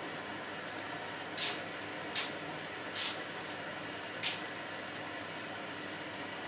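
Indesit washing machine filling with water at the start of its sport wash cycle: a steady hiss of water coming in through the inlet valve, with four brief louder surges in the first few seconds.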